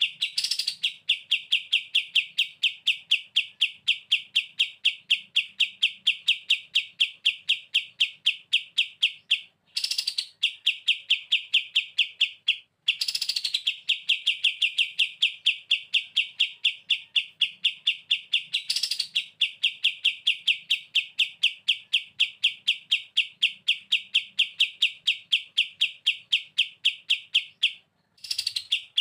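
A kapas tembak bulbul singing its 'bren' song: one long, rapid rattling run of repeated notes, about five a second. The run breaks briefly four times, each break with a quick higher note.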